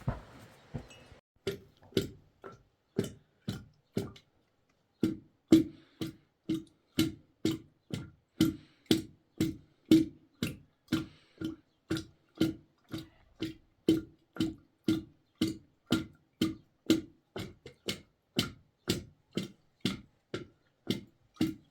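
Repeated sharp knocks, about two a second, steady and evenly spaced, with a short pause about four seconds in. It sounds like a tool or hammer striking something over and over.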